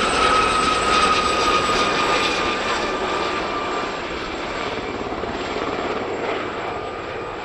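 Aérospatiale Gazelle helicopters flying overhead: a steady high whine from the Fenestron ducted tail fan over the rotor and turbine noise, the pitch sliding slightly lower and the sound easing a little as they pass.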